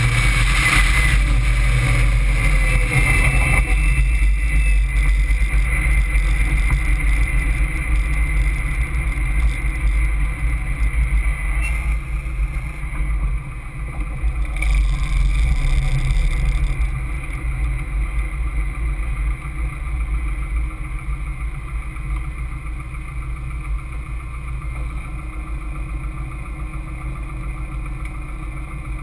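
Caterham Seven engine heard from its open cockpit, with wind rush on the microphone in the first few seconds. The engine then eases to a lower, steady run as the car slows to a crawl, and the sound gradually gets quieter over the second half.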